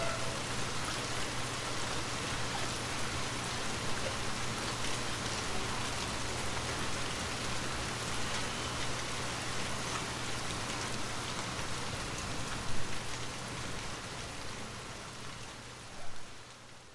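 Steady rain falling on a window, with two brief louder taps in the second half, fading out near the end.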